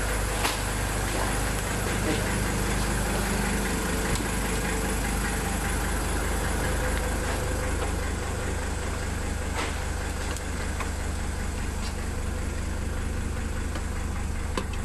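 Car engine idling smoothly and steadily, back running after ten years without being started.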